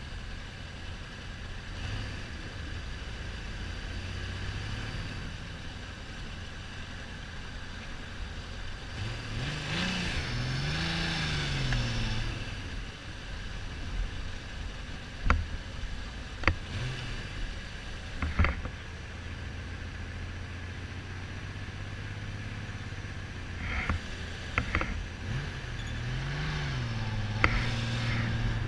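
Kawasaki Z1300's inline six-cylinder engine running on the road, revving up and easing off twice, under wind noise on the microphone. A few sharp clicks from helmet rattle come in the middle. The bike is misfiring, not running on all cylinders, which the owner suspects comes from the carbs fouling the spark plugs.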